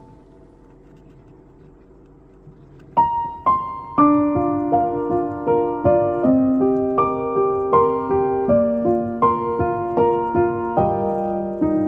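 Background piano music: soft, faint held notes, then about three seconds in a gentle piano melody starts, with struck notes that ring and fade, roughly two or three a second.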